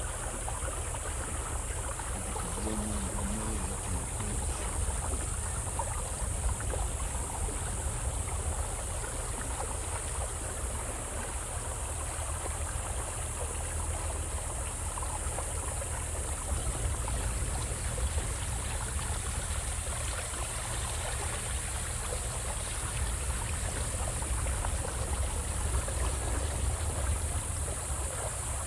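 Steady low rumble and rushing water of a small boat moving along a river, with a constant high hiss over it.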